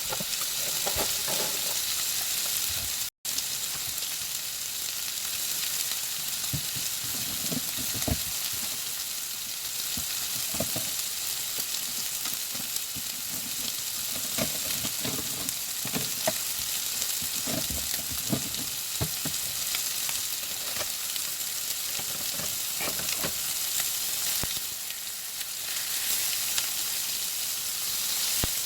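Chicken tenders frying in butter in a pan, a steady sizzle, with a utensil scraping and turning the pieces at intervals through the middle stretch. The sound cuts out for an instant about three seconds in.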